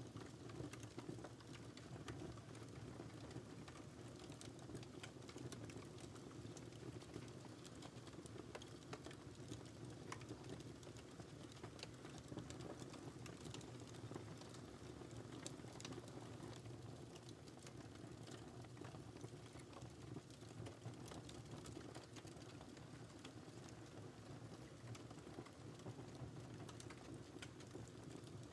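Wood fire crackling: many small, irregular pops and snaps over a low, steady rumble of burning.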